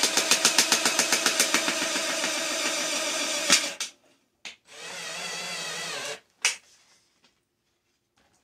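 Power drill running in two bursts. The first has a rapid even chatter of about seven beats a second that smooths into a steady whir and stops about three and a half seconds in. A shorter steady run follows, then a sharp click.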